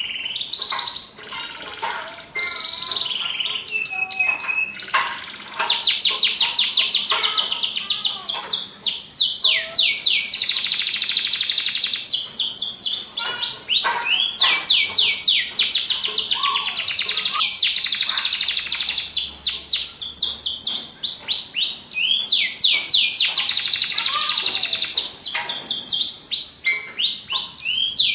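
Domestic canary singing continuously, in rolling trills of rapid, repeated downward-sweeping notes. The song becomes denser and louder about five or six seconds in.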